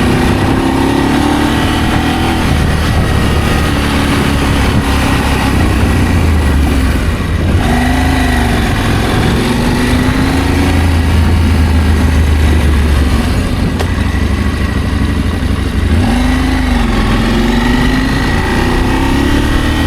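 Adventure motorcycle engine running under way, its pitch repeatedly dipping and rising again as the rider rolls off and opens the throttle.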